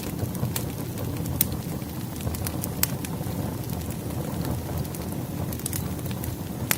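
Wood fire burning in a fireplace: a steady low rumble of flames with irregular sharp crackles and pops from the firewood.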